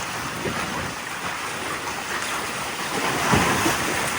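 Steady rushing noise of wind and sea water aboard a sailboat under way, swelling a little about three seconds in.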